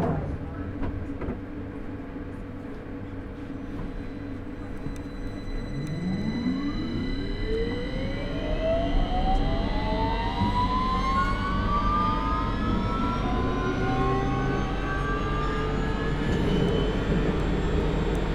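Victoria line 2009 Stock (Bombardier Movia) train's traction motors pulling away from a standstill. After a steady hum for the first few seconds, several whining tones start low about six seconds in and rise together in pitch as the train accelerates, growing louder.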